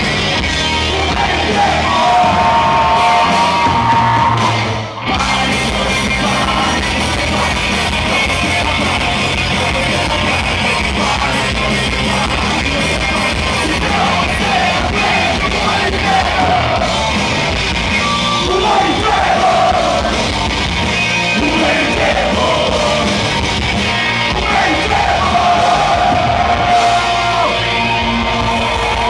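Hardcore punk band playing live at full volume, with yelled vocals over the band. There is a brief break about five seconds in before the band comes back in.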